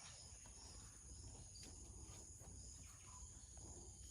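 Faint, steady high-pitched drone of rainforest insects, at two constant pitches, over a faint low rumble.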